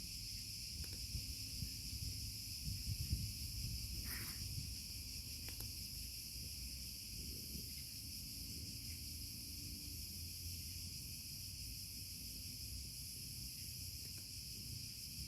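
Steady chorus of insects chirring without a break, with a low rumble underneath.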